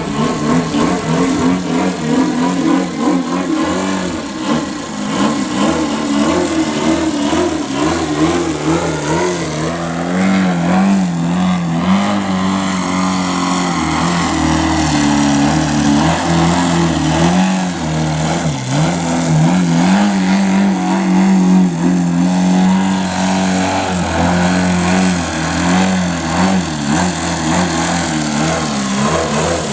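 Twin-cylinder boxer four-stroke model-aircraft engine (YS TZ240) running continuously, its pitch wavering and gliding up and down throughout.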